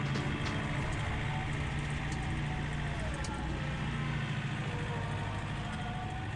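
Tractor engine running steadily while plowing snow, heard from inside the cab, its note shifting a little partway through.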